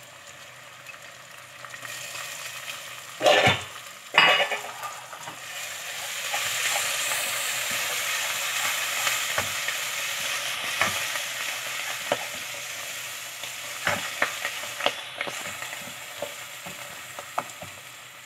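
Fresh fenugreek leaves frying and sizzling in a spice masala in a nonstick pot while a spatula stirs and scrapes them through. Two sharp knocks come about three and four seconds in, and the sizzle swells louder after that.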